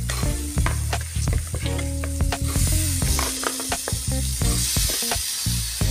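Raw chicken pieces dropped into hot onion-masala in a steel kadai, sizzling and frying, the hiss growing stronger about halfway through, with a few clicks of pieces and spatula against the pan. Background music with low sustained notes plays alongside.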